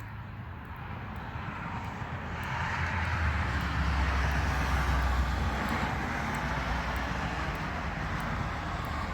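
A passing vehicle, its noise building over the first few seconds, loudest around the middle, then slowly fading.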